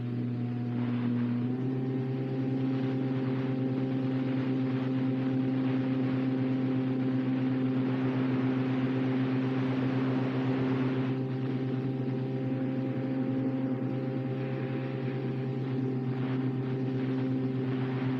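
Electric motor and propeller of a radio-controlled model plane running at steady throttle: a steady droning hum over a hiss. The pitch steps up slightly about a second and a half in.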